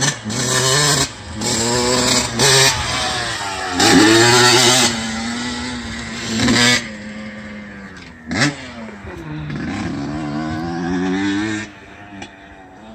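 2003 Yamaha YZ125's single-cylinder two-stroke engine revving hard and cutting off several times, as the throttle is opened and chopped. About eight seconds in it gives one sharp brief blip, then revs up again and falls away near the end.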